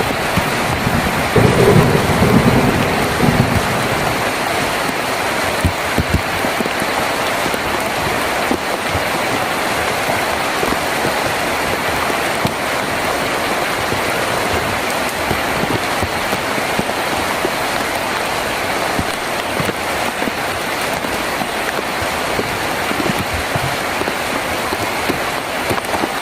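Rain falling steadily on a tin roof, with a low rumble of thunder in the first few seconds that dies away.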